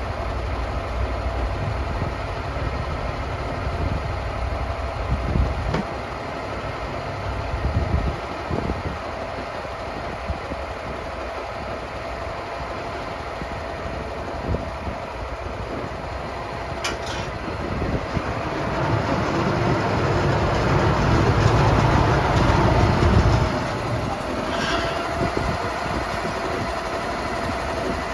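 Sawmill engine running steadily, growing louder for several seconds past the middle before settling back.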